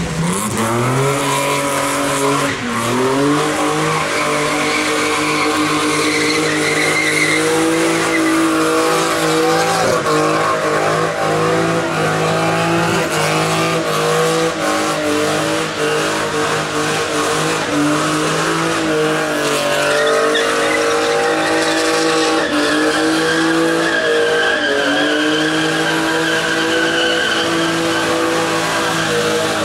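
Nissan Cefiro's RB25DE 2.5-litre straight-six held at high revs in a burnout, with the engine note dipping briefly and climbing back several times. Under it runs the steady hiss and squeal of spinning rear tyres.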